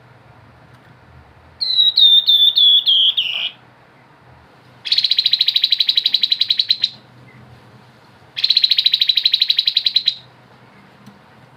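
Grey-headed babbler singing: a run of about seven short, high whistled notes, then two fast trills of about two seconds each.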